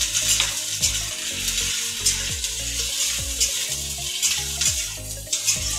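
Freshly added chopped okra sizzling in hot oil in a kadhai (wok), with a metal spatula scraping and stirring it in repeated short strokes.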